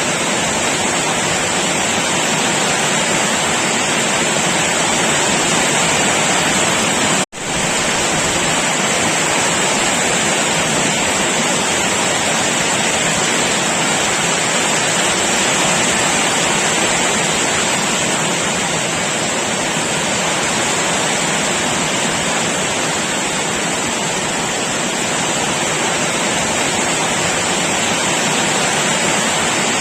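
Heavy rain pouring down in a steady, dense hiss. It breaks off for a split second about seven seconds in, then carries on unchanged.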